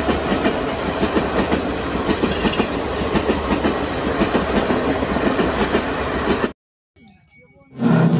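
Passenger train running past with a steady rumble and the clickety-clack of wheels over rail joints, cutting off suddenly about six and a half seconds in. After about a second of near silence, a different loud, steady sound starts near the end.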